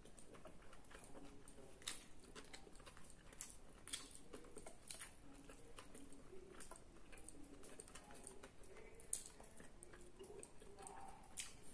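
Faint chewing and wet mouth clicks from a person eating roast chicken and rice by hand, with scattered small ticks.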